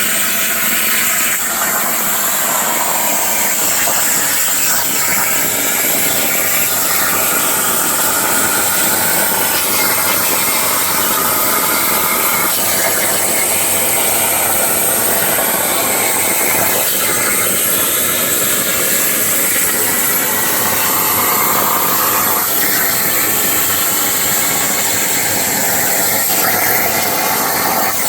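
Plasma torch on a CNC plasma table cutting steel, a steady loud hiss that holds through without a break.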